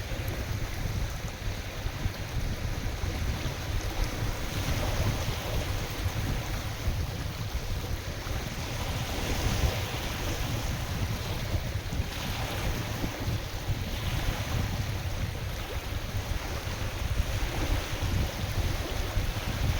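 Wind buffeting the microphone with a steady low rumble, over lake waves washing in swells that rise and fade every few seconds.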